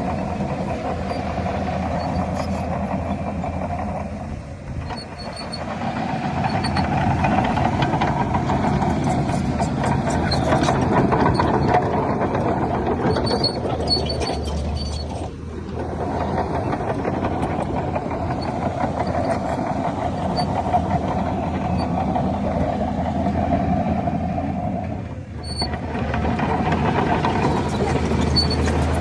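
Heavy diesel earthmoving machinery running under load, a continuous engine rumble that drops briefly three times, about ten seconds apart.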